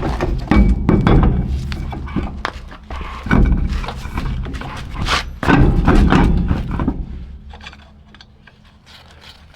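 Several heavy metal thunks and clanks from work on a truck's rear drum brake, fading away about seven seconds in.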